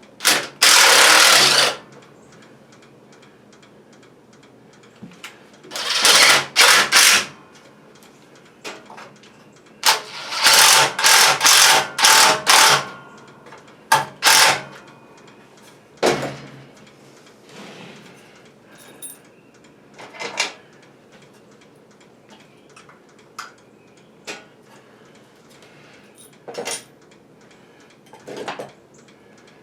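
Handheld power tool run in several short bursts of a second or two, the longest a run of fast pulses about ten seconds in, then scattered metal knocks and clanks.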